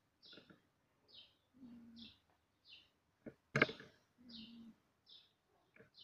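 A small bird chirping over and over, one short high call about every second. A louder sharp sound stands out a little past the middle.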